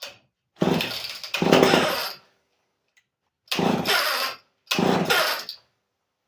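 Vintage Lombard American Lincoln chainsaw being pull-started: four hard pulls on the recoil starter, each turning the engine over briefly against heavy compression, then stopping without the engine running on.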